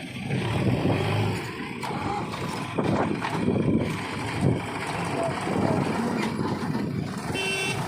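Diesel engine of a JCB 3DX backhoe loader running under load, its loudness rising and falling as it works. A short pitched beep sounds near the end.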